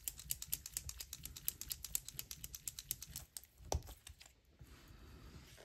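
An acrylic paint marker being shaken, its mixing ball rattling in a fast, even run of about eight clicks a second that stops a little over three seconds in. One sharper click follows shortly after.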